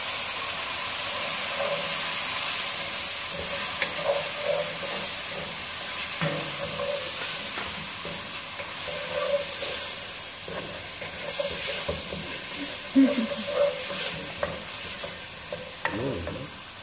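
Tomato paste, carrots and spices sizzling in hot oil in a pan, the sizzle swelling as lemon juice is poured in at the start. A wooden spoon then stirs the mixture, scraping and knocking against the pan now and then.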